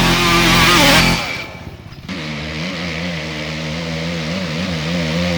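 An off-road vehicle's engine running, its pitch wavering up and down slightly as the throttle moves, starting about two seconds in after a short stretch of music.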